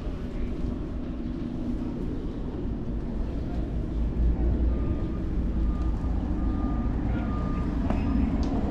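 Steady low rumble of city traffic and wind noise heard from a moving bicycle. About five seconds in, a run of short, evenly spaced high electronic beeps sounds for about three seconds.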